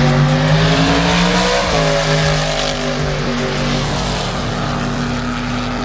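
A race car's engine running hard on the track at high revs. Its note shifts pitch about two seconds in and then holds steady.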